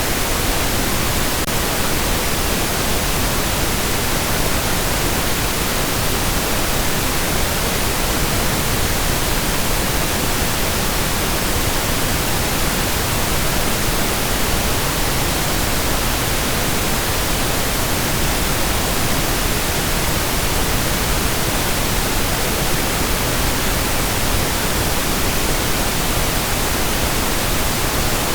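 Steady pink noise: an even, unchanging hiss spread across all pitches, with no breaks.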